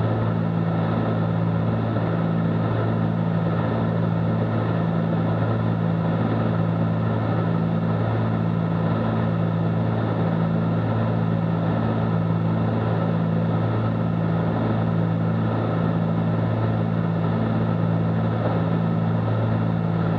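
Cessna 310Q's two six-cylinder piston engines running steadily in flight, heard inside the cabin as a constant low drone that throbs slowly about once a second.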